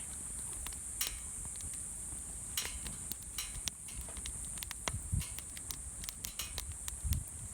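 Wood fire crackling in a fire pit, with irregular sharp pops over a steady high hiss.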